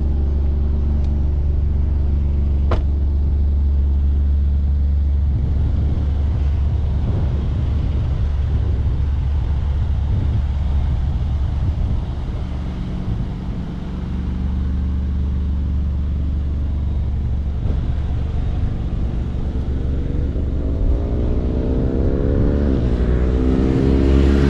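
Twin-turbo 3.0-litre Nettuno V6 of a 2024 Maserati GranTurismo Modena running steadily on the road, easing off slightly about halfway through. It then revs up over the last five seconds as the car accelerates hard.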